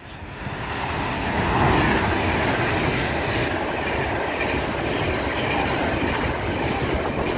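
Class 390 Pendolino electric train passing at speed: a rush of wheel and air noise that builds over the first second or two, then holds steady.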